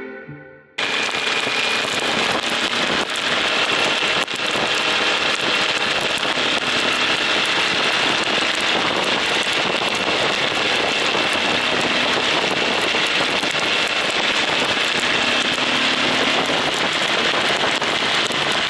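Heavy rain on a moving motorcycle and its handlebar-mounted camera: a loud, steady hiss that starts abruptly about a second in.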